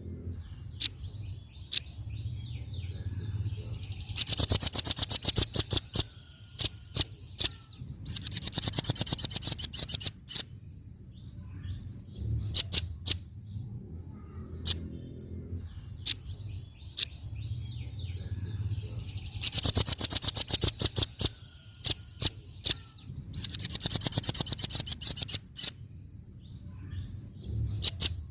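Velvet-fronted nuthatch calling: four rapid trills of high, sharp notes, each about two seconds long, with single sharp chips between them. A steady low rumble sits underneath.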